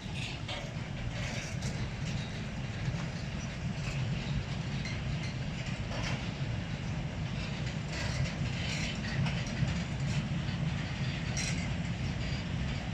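Freight train of empty car-transporter wagons hauled by a class 185 electric locomotive, rolling past with a steady low rumble and scattered clicks from the wheels on the rails.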